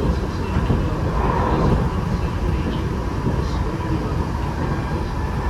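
Tokyo Metro 8000 series electric train, Mitsubishi IGBT-VVVF set, running between stations, heard from inside the car: a steady rumble of wheels on rail and running gear with a faint steady whine.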